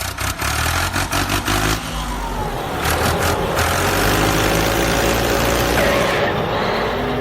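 An engine running and revving, with scattered clicks in the first couple of seconds.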